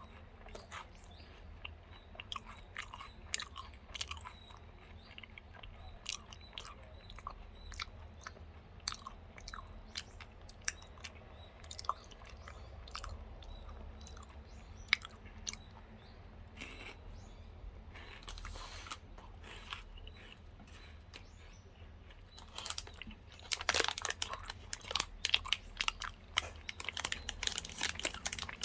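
Close-miked chewing of a Lotte Crunky crisped chocolate bar, a steady run of small crunching crackles. The crackles grow denser and louder near the end.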